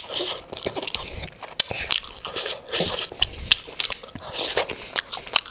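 Close-miked mouth sounds of a man biting into and chewing a momo dumpling, with many short irregular clicks and smacks.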